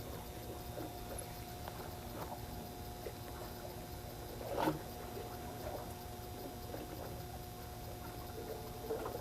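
Steady low hum of a fishing boat's engine, with scattered small clicks and rustles of handling and one louder knock about halfway through.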